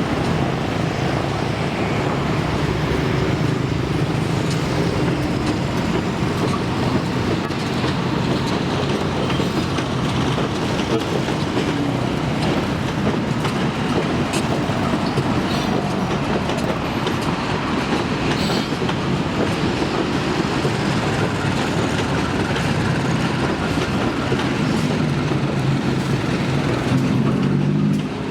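A train running past on the rails: a loud, steady noise of wheels on track, with a low engine hum at the beginning and again near the end.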